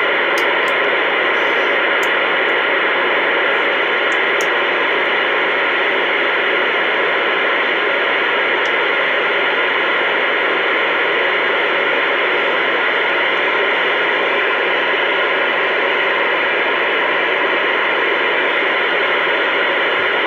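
CB radio receiver hissing with steady static on an open channel while nobody is transmitting. The hiss is loud and even throughout.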